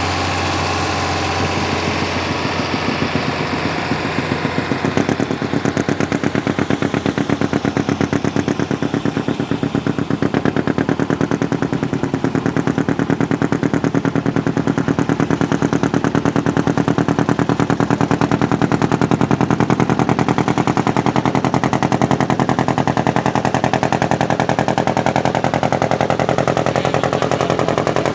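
Antique pulling tractor's engine running hard under full load through an open exhaust, its firing pulses coming as a fast, even machine-gun-like rattle that holds steady throughout.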